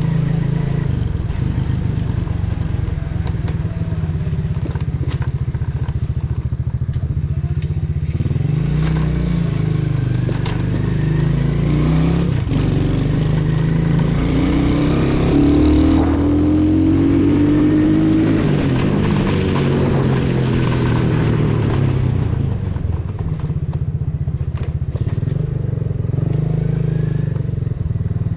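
Custom 125cc motorcycle's engine and exhaust running while riding. About halfway through, the engine note rises in pitch for a few seconds as it speeds up, then settles back.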